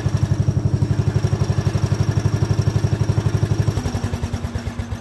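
1979 Power King garden tractor's engine running with an even, rapid beat. About four seconds in, its pitch drops and it begins to slow and fade, winding down.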